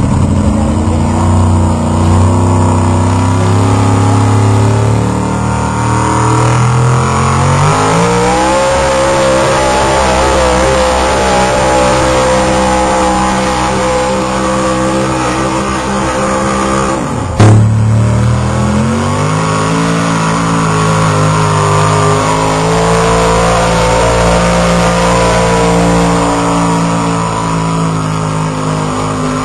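A pulling truck's engine running hard under load, climbing in pitch and dropping back twice as it shifts gears, with one sharp bang a little past halfway.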